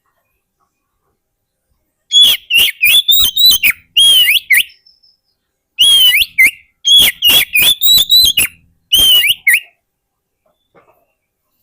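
Oriental magpie-robin (kacer) singing: two loud phrases of rapid, clear whistled notes that sweep up and down, each a few seconds long with a short pause between them, starting about two seconds in and stopping before the end.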